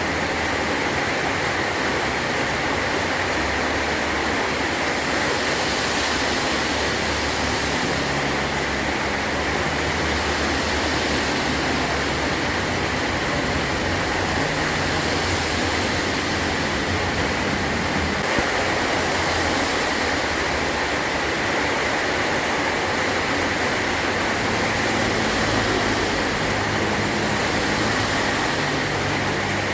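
Heavy rain pouring steadily on a metal roof, an even hiss with no breaks.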